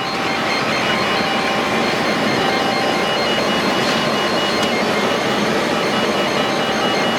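Steady road and wind noise inside a moving car, with faint steady high-pitched tones over it.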